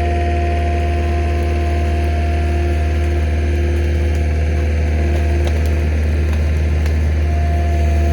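An engine running steadily at an even speed with a low drone, growing slightly louder near the end.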